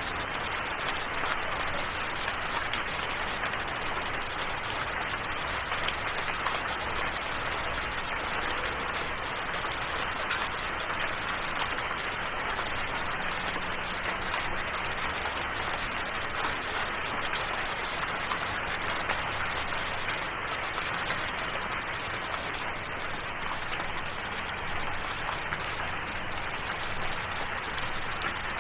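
Steady rain falling, an even hiss with fine patter of drops that stays at one level throughout, with faint low held tones underneath.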